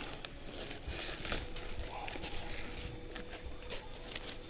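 A bag being pulled over a nucleus hive box, crinkling and rustling in many small irregular crackles.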